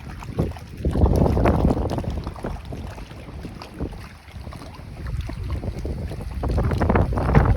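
Wind buffeting the microphone in gusts, a low uneven rush that swells about a second in and again near the end.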